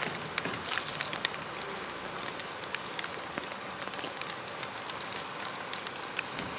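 Steady rain falling, with many small drops tapping on nearby surfaces.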